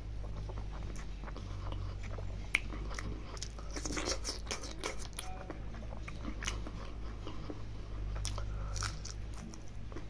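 Close-up mouth sounds of someone chewing a mouthful of rice and curry eaten by hand: wet chewing with many short smacks and clicks, and some crunching. A steady low hum runs underneath.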